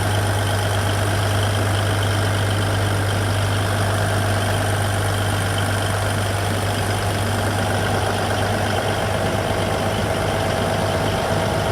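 Liebherr R984 hydraulic excavator's diesel engine running steadily at idle: an unchanging low drone with a steady higher tone above it.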